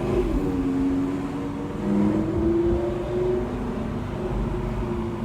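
Car engine running, its pitch drifting up and down a little, with a brief rise about two seconds in.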